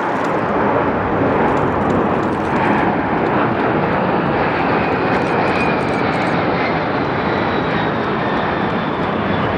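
Jet aircraft passing overhead at an airshow: a loud, steady roar, with a faint high whine that slowly falls in pitch through most of the pass.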